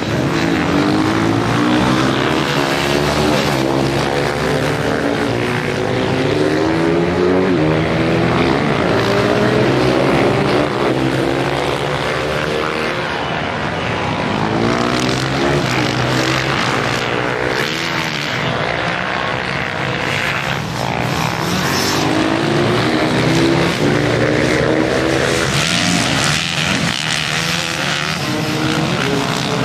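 Several racing motorcycle engines running hard together, their pitch climbing and dropping again and again as they rev up through the gears and ease off.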